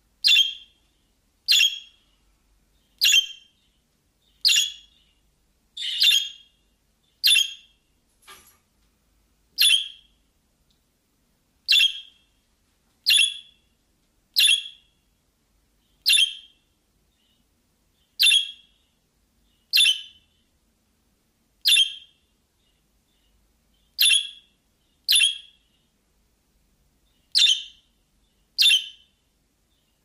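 Short, sharp bird chirps, one call roughly every one and a half seconds, with a few longer pauses between some calls.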